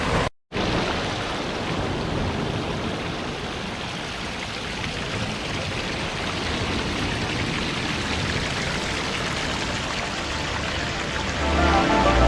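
Small waterfall trickling and splashing down the rocks, a steady rush of falling water that cuts out for a moment just after the start. Music begins to fade in near the end.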